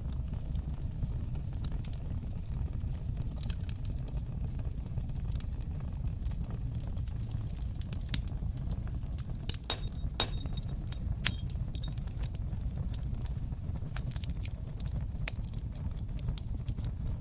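Wood fire in a fireplace crackling: scattered snaps and pops over a steady low rumble of burning, with a cluster of sharper crackles about ten seconds in and one loud pop a second later.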